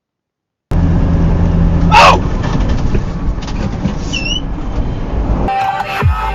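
Silence, then vehicle engine and road noise cut in abruptly, with a loud brief sound about two seconds in. Near the end this gives way to electronic music with a beat.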